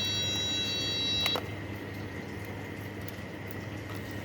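A steady high-pitched electronic tone that cuts off with a click about a second in, leaving a low steady hum.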